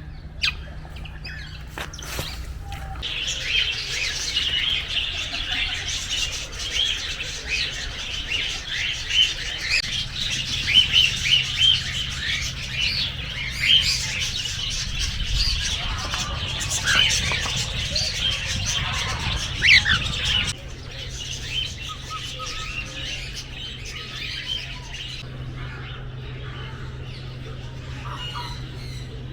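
Many small birds chirping together in a dense, overlapping chorus, which thins to scattered chirps about two-thirds of the way through.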